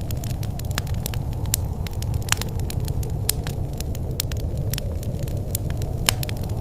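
Wood fire burning in a fireplace: a steady low rumble of flames with frequent sharp crackles and pops, a few louder pops scattered through.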